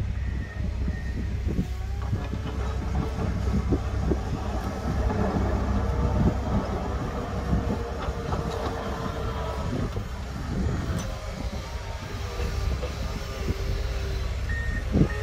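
Tractor engine running steadily while clearing snow, with a backup alarm beeping in the first second and again near the end.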